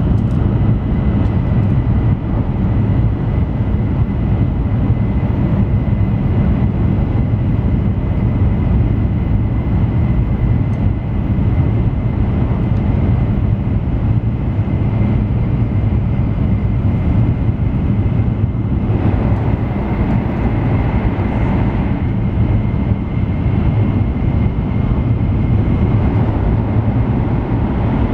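Cabin noise inside an N700 series Shinkansen car while the train runs: a steady low rumble of wheels and rushing air, with a faint steady whine above it. About two-thirds of the way through, the sound shifts briefly, with more hiss for a few seconds.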